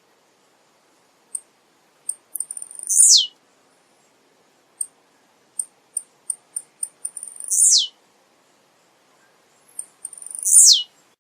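Male blue-black grassquit (tiziu) singing three short high songs, each a quick note falling steeply in pitch. Single high chips are scattered between the songs.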